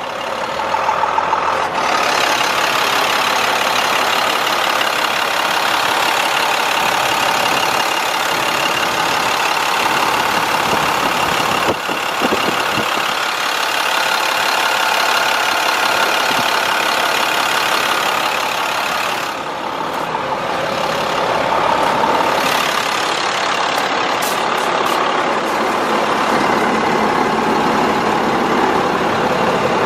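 International DT466 diesel engine of a bucket truck running steadily, with a brief dip in level about two-thirds of the way through.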